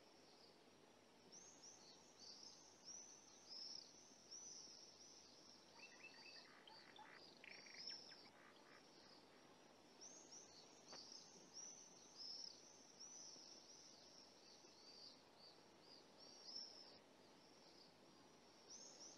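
Faint birds chirping, a steady stream of short high chirps, over the hiss of an old film soundtrack. A lower call is heard for a couple of seconds around six to eight seconds in.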